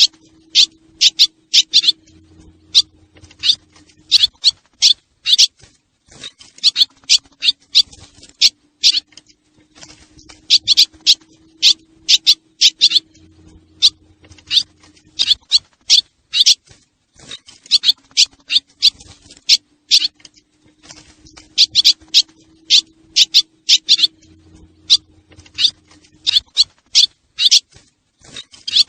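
Looped recording of swallow calls played as a lure: rapid trains of high, sharp chirps in bursts of a few seconds. The pattern repeats about every eleven seconds over a faint steady hum.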